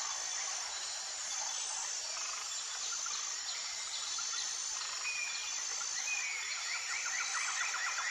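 Outdoor chorus of insects and birds: high, thin insect calls repeating steadily, with short bird whistles and a fast chattering trill in the second half.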